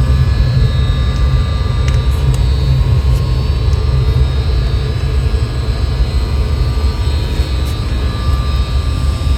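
Running machinery: a loud, steady low rumble with steady high whining tones over it.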